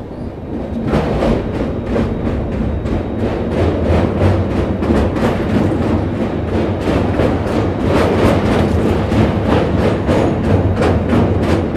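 Passenger train's wheels clattering over the rails as it crosses a steel truss bridge: a loud, dense rattle of knocks over a steady rumble, growing louder about a second in as the train runs onto the girders.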